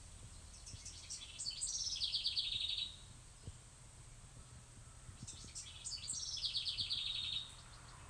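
A songbird singing the same short song twice, about four seconds apart: a few high introductory notes, then a rapid trill that slides down in pitch and levels off.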